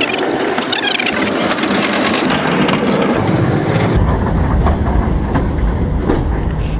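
Old train running along the track, a steady rattling rumble of the wagons; the low rumble gets much heavier about four seconds in.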